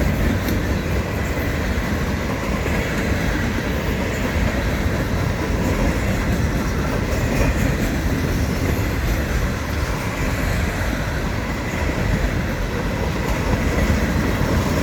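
Freight cars of a manifest train, gondolas at the tail, rolling past close by: a steady heavy rumble and clatter of steel wheels on the rails.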